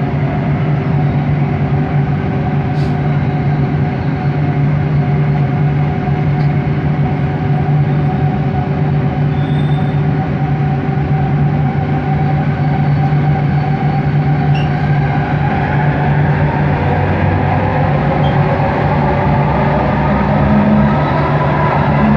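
Bombardier Innovia ART 200 metro train running, heard from inside: a steady rumble with a constant drone of motor tones. From about two-thirds of the way in, a whine rises in pitch.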